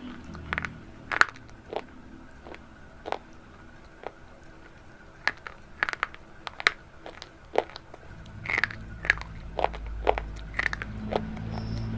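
Crunchy food being bitten and chewed close to the microphone: irregular, crisp crunching snaps. A low rumble sets in about eight seconds in.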